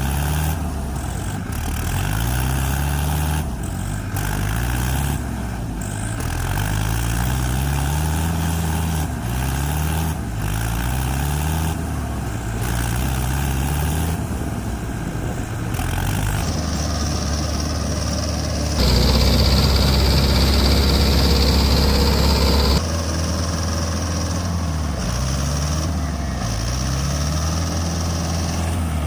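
Vehicle engine running, its pitch rising again and again every two to three seconds, with a louder hissing stretch lasting about four seconds, starting just before the middle.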